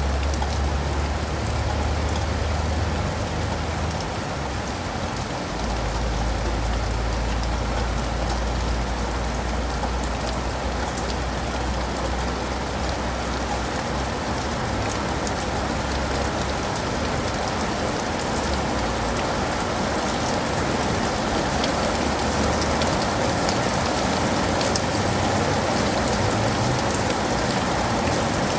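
Steady rain falling on surfaces, an even hiss with individual drops ticking close by. A low rumble sits underneath for roughly the first half and then fades away.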